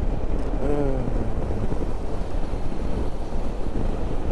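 Wind rumbling on a helmet-mounted microphone on a moving motorcycle, over steady road and engine noise. A short pitched tone glides downward about a second in.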